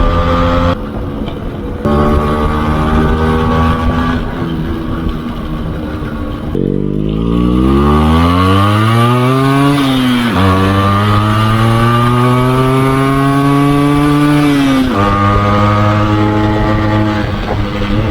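Yamaha RX 135's two-stroke single-cylinder engine under way, pulling through the gears. Its pitch climbs steadily, drops at a gear change about ten seconds in, climbs again more slowly, then falls back near fifteen seconds and holds steady.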